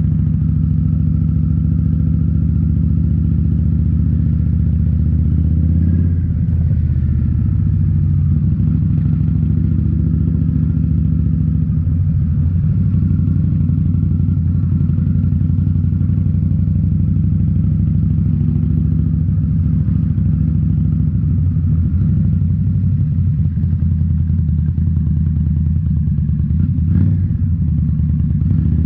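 2018 Indian Scout Bobber's 1133 cc liquid-cooled V-twin through Rinehart slip-on mufflers, running steadily while riding. The engine note changes about six seconds in, and there is a brief sharp sound near the end.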